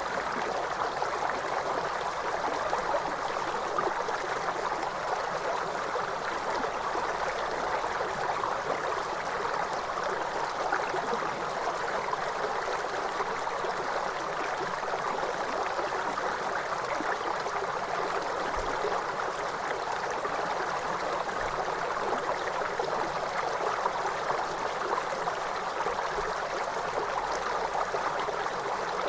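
Waterfall: steady rushing of falling water, an even, unbroken wash of sound with little deep rumble.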